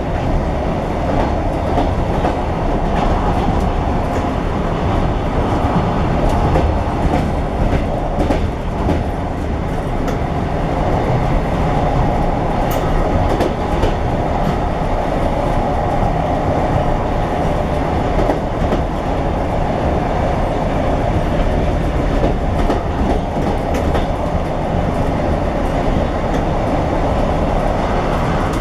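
A train's last carriage running over the rails at speed: a steady, loud rumble and rattle of wheels on track, with a few faint sharp clicks.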